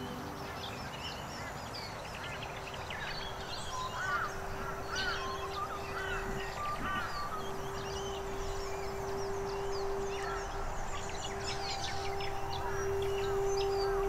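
Wild birds calling and chirping in an open wet field, with a run of repeated arched calls about four to seven seconds in, over a steady low hum.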